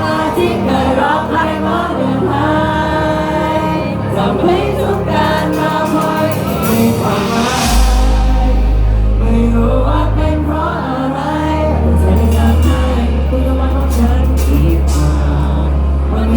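Live band music with singing: a steady bass line under held sung notes, with a cymbal crash about seven seconds in.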